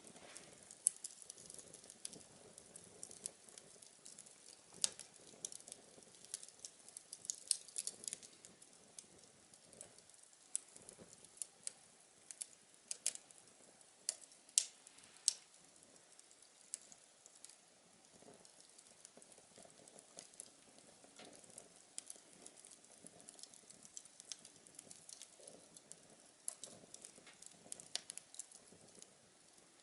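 Small wood fire crackling inside a homemade tin-can stove: irregular sharp pops and crackles over a faint low hiss.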